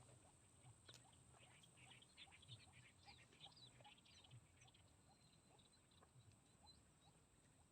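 Near silence with faint bird chirps and twitters in the swamp ambience, busiest in the first half.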